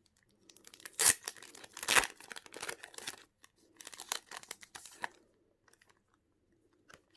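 Plastic or paper packaging crinkling and tearing as it is handled to get at a photo card, with sharp crackles about one and two seconds in. It dies away about five seconds in.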